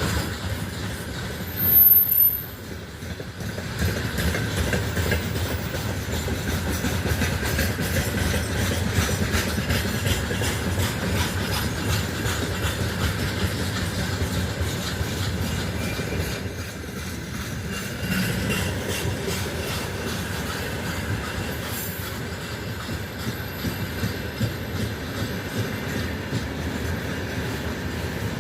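Wagons of a heavy freight train rolling past, wheels clattering steadily over the rail joints. About two seconds in comes a brief, loud high-pitched wheel squeal.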